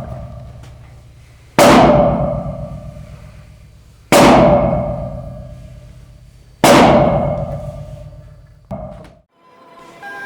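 Heavy metal-on-metal blows during well repair work, struck about every two and a half seconds, each one clanging and ringing out as it fades. A fifth, weaker clang comes near the end, then the sound cuts off.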